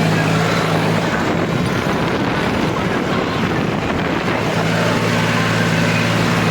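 A harvesting machine's engine running steadily with a low hum. For a few seconds in the middle, a louder rushing noise nearly covers the hum.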